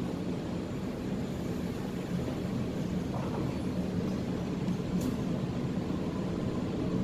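Sydney Trains electric passenger train running through the station, a steady low rumble that grows a little louder about two seconds in.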